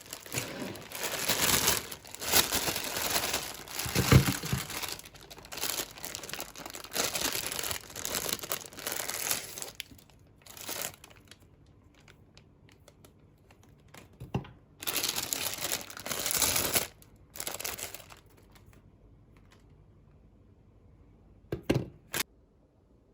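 Plastic wrappers crinkling and tearing in irregular bursts as they are handled and pulled open, with a few dull knocks.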